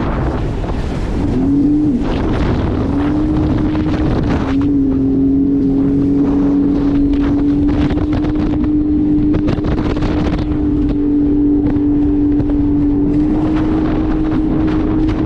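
Jet ski engine running at speed, its pitch dipping briefly twice early on as the throttle eases and then holding steady, with wind buffeting the microphone and water rushing and slapping.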